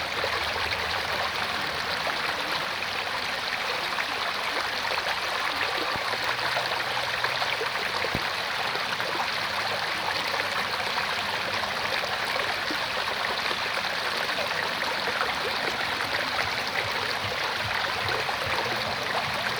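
Mountain valley stream flowing, a steady rushing and babbling of water.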